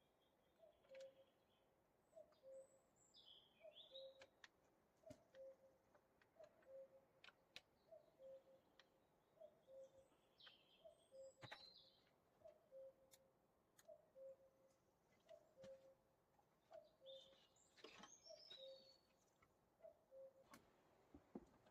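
Faint forest birdsong: a low two-note call repeated steadily about once a second, with higher chirps and twitters over it and a few faint ticks.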